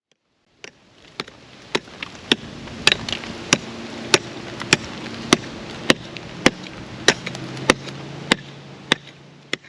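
Regular ticking, about five ticks every three seconds, over a faint steady hum.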